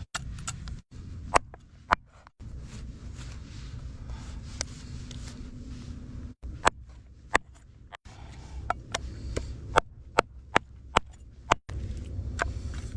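A knife chopping through a frozen whole chicken: a series of sharp, irregular chops, a dozen or more, some in quick runs. A steady low hum runs underneath.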